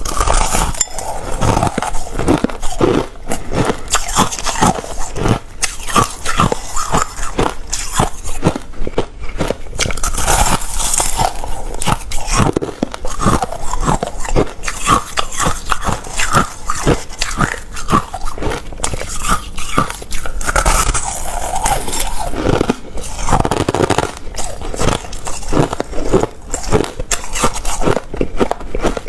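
A person biting and chewing hard refrozen crushed ice close to the microphone: rapid, loud crunches, several a second, with no let-up.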